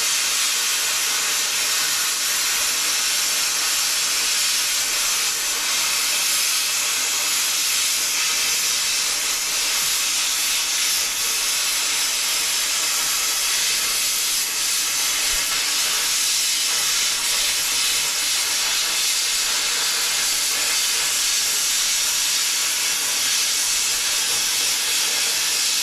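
A steady, loud hiss of a compressed-air shop tool running without a break, then cutting off abruptly at the end.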